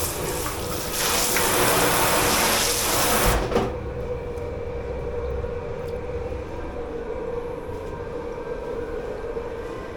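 Water rushing hard from a kitchen tap or spray hose into a sink, shut off suddenly about three and a half seconds in. A steady machine hum carries on underneath.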